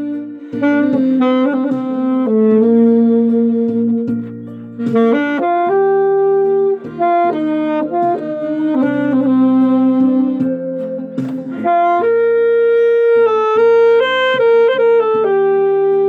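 Alto saxophone playing a sustained, legato melody over a backing track of held accompanying chords.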